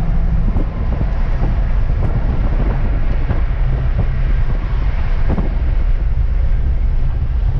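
Hemi V8 car driving on the road: a steady low rumble of engine, tyres and wind.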